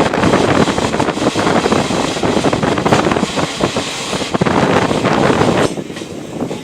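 Passenger train running on the track: a loud, steady rumble and clatter of wheels and coaches. The noise drops suddenly near the end.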